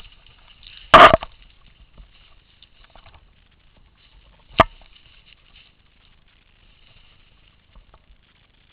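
Paintball marker firing: two sharp pops, a loud one about a second in and a shorter one a few seconds later.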